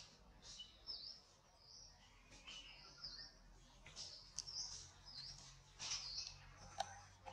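Faint bird calling: a string of short, high chirps that dip in pitch and rise again, about one a second, with a few light clicks between them.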